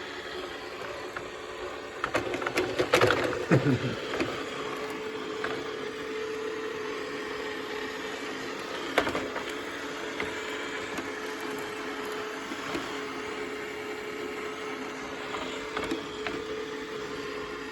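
Robot vacuum cleaner running with a steady hum. A burst of clattering and knocking comes about two to four seconds in, and a single knock about nine seconds in.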